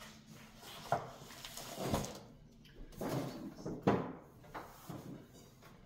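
Refrigerator drawer and its contents being handled: a few short knocks and rustles, as egg cartons and other items are moved about in the drawer.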